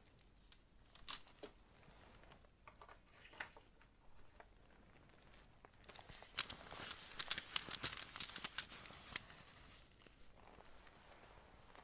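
Light tapping and crinkly handling sounds for ASMR, a scatter of soft clicks that gets busier and crackly for a few seconds in the middle.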